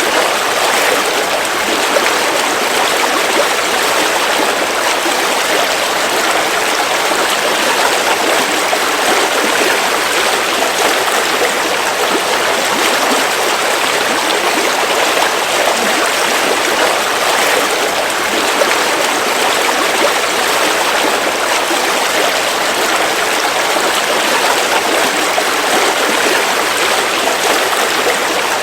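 River water flowing over rocks, a steady rushing and babbling without a break.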